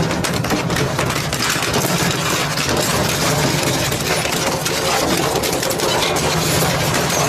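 Double-shaft shredder running under load, a steady motor hum under dense crunching and cracking as its blades tear through material.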